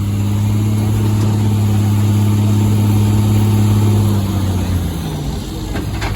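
Stock gasoline pickup truck's engine running hard under load on a truck pull, its note held steady, then easing off and fading about four seconds in.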